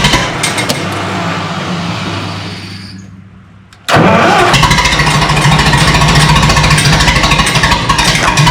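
Minneapolis-Moline U tractor's four-cylinder engine being started on choke. A first try fades out over a few seconds. About four seconds in it starts again suddenly and keeps running with a steady pulsing beat.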